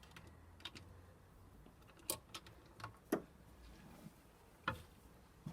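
Hand tools on cylinder head bolts of a 350 Chevy V8: a few sharp, irregular metal clicks and knocks as the tight bolts are broken loose.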